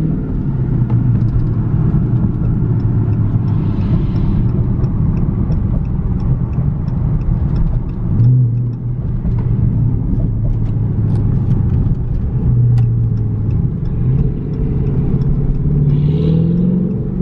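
V8 muscle-car exhaust running at low revs, with short blips that rise in pitch about halfway through and near the end, and scattered sharp exhaust pops.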